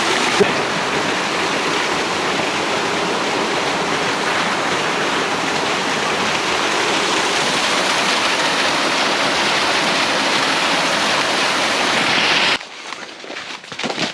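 Loud, steady rush of a stream or small waterfall close by, which cuts off suddenly near the end.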